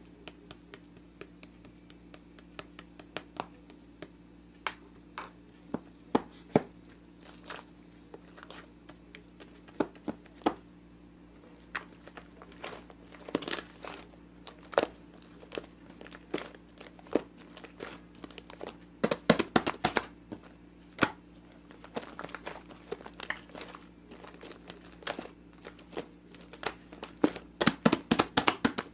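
Irregular crinkling and crackling, like paper or plastic being handled, with dense flurries of crackles about two-thirds through and again near the end. A faint steady low hum sits underneath.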